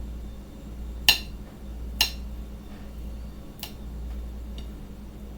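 Kitchen knife chopping vegetables on a cutting board: three sharp knocks spaced irregularly, with a fainter fourth near the end.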